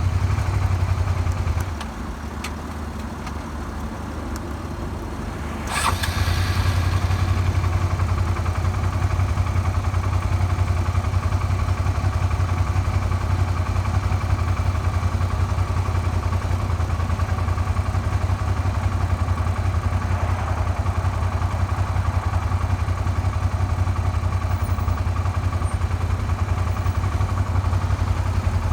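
Suzuki SV400's V-twin engine running, an engine that knocks after a makeshift crankshaft repair. Its sound drops away for a few seconds, then comes back with a sharp burst about six seconds in and runs steadily after that.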